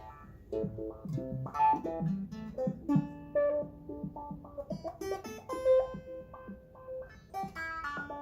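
Plucked, guitar-like notes stepping from one pitch to another in an irregular sequence, each striking and then dying away: the output of a digitally controlled sample-and-hold circuit, playing cleanly now that its noise problem is fixed.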